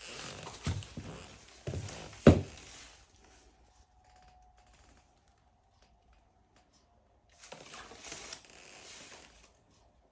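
Handling noise from a mesh textile motorcycle jacket being moved and shown: fabric rustling and a few knocks, the loudest a sharp thump about two seconds in. Then it goes quiet, with rustling again in the second half.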